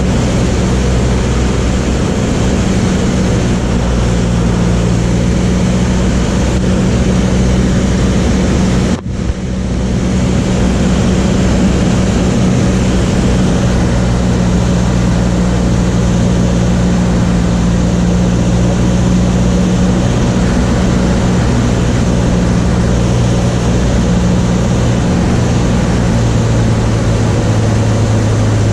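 Light propeller aircraft's piston engine and propeller droning steadily, heard loud as cabin noise. A brief break about nine seconds in.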